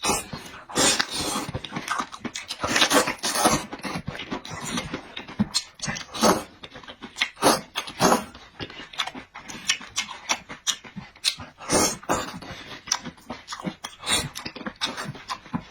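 Close-miked mouth sounds of a person eating: wet chewing and lip smacking in quick, irregular bursts.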